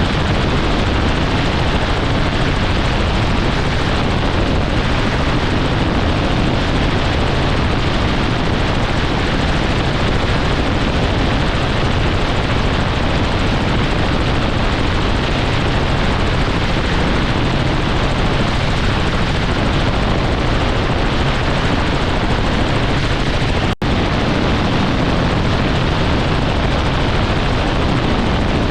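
Helicopter running steadily, a dense unbroken rush of rotor and engine noise, cut by a split-second dropout near the end.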